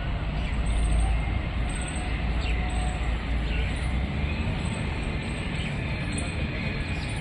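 Outdoor park background noise: a steady low rumble, heaviest in the first second or so, with faint bird chirps scattered through it.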